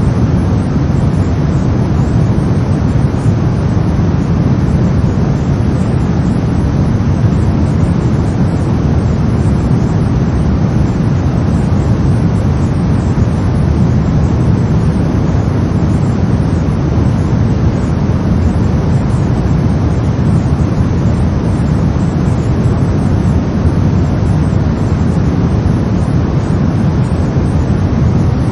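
Steady brown noise: a deep, even rumble of noise, strongest in the bass and thinning toward the treble, unchanging throughout.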